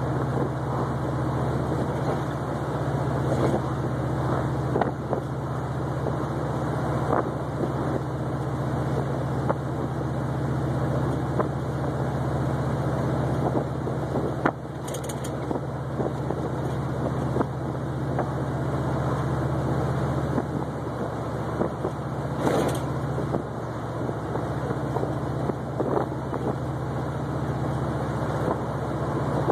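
1972 Oldsmobile 442's V8 running with a steady low drone while cruising, with road noise under it and a few light knocks from the road.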